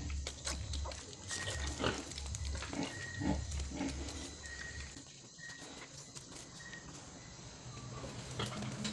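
Piglets grunting, with scattered clicks and knocks; quieter after about five seconds.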